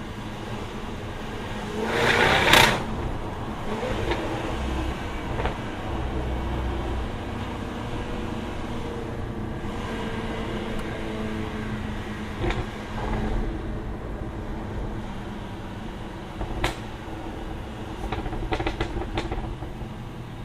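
Jaguar F-Type R's supercharged 5.0-litre V8 running steadily on a drive. There is a loud burst about two seconds in, and a few sharp cracks come later, most of them in a quick cluster near the end.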